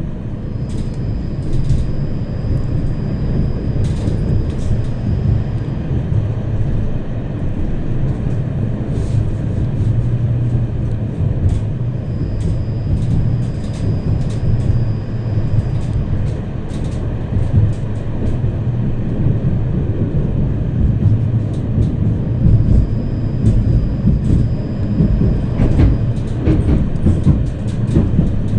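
Tram running along its rails, heard from inside the car: a steady low rumble with scattered clicks and knocks. A thin high whine comes in three times for a few seconds each.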